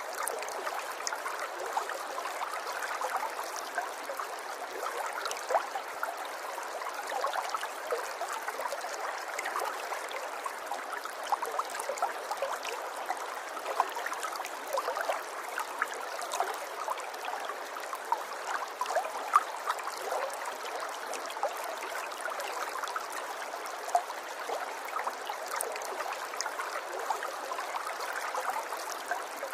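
River water running and babbling over stones, a steady rush of water with many small splashes and trickles.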